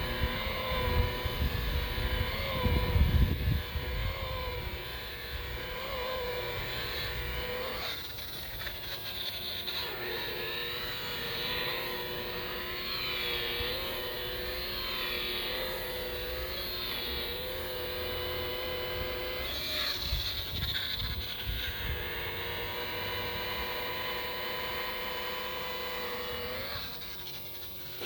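DeWalt DWP849X rotary buffer running against boat gelcoat while compounding oxidation off it, its motor whine wavering up and down in pitch as the pressure on the pad changes. A low rumble comes in about three seconds in, and the whine dips just before the end.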